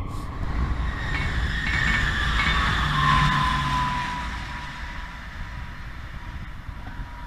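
Dutch electric passenger train passing at speed, its rail noise loudest about three seconds in and then fading as it runs away. A thin whine dips slightly in pitch as it goes by.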